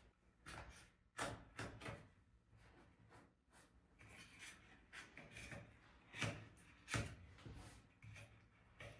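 Scattered knocks and rubbing, as of objects being handled and set down, with the loudest knocks about a second in and again around six and seven seconds in.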